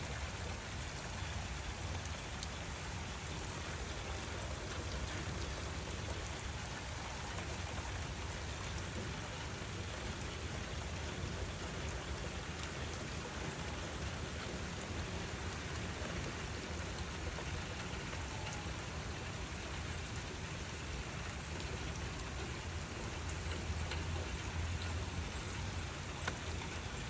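Steady rain falling, an even patter with a constant low rumble underneath that swells slightly near the end.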